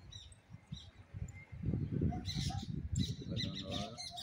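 Small birds chirping in short high calls that grow busier in the second half, over an irregular low rumbling on the microphone.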